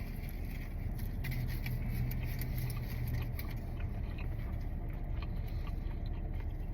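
A person eating, with faint chewing and small food-handling clicks and rustles scattered over a steady low hum.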